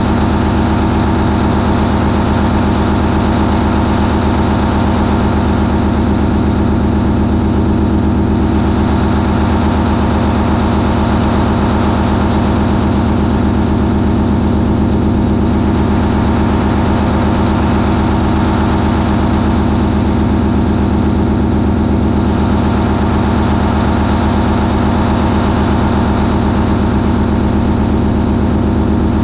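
MAN 20V28/33D STC, a 20-cylinder V medium-speed marine diesel propulsion engine, running steadily at high speed, about 980 RPM. The sound is loud and unchanging, a dense, even drone of many tones.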